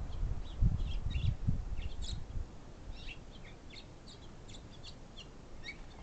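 Several songbirds chirping and singing, with many short high calls scattered through. A low rumble sits under them for the first two and a half seconds, then fades.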